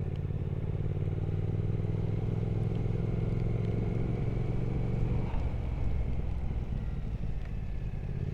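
Triumph Speed Twin 1200's parallel-twin engine running steadily under way. About five seconds in, the throttle eases off and the engine note drops and turns uneven.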